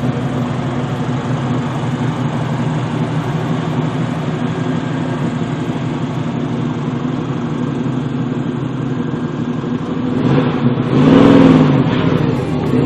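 Muscle car engine running with a steady note, then revving louder near the end, its pitch rising and falling back.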